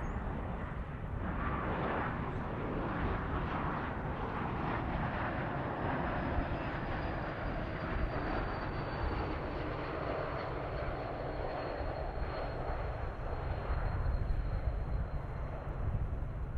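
Jet airliner's engines as the aircraft passes, a steady rush of engine noise with a low rumble and a faint high turbine whine falling slowly in pitch.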